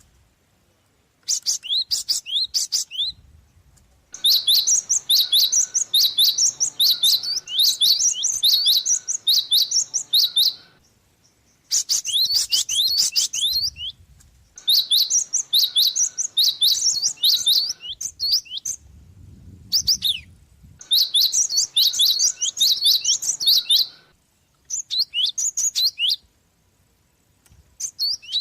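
Gelatik bird singing in runs of rapid, high chirps, each phrase lasting from one to about six seconds, with short pauses between phrases.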